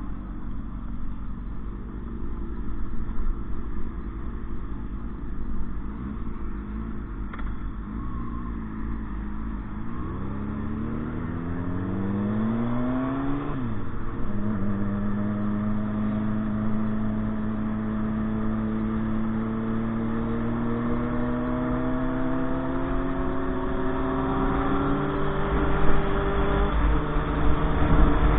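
Motorcycle engine running. After a low rumble, it revs up about a third of the way in, drops sharply at a gear change, then pulls on with its pitch climbing slowly and steadily.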